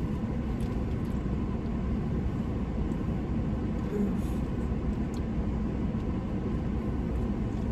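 Steady low rumble of a running vehicle, with a few faint light clicks.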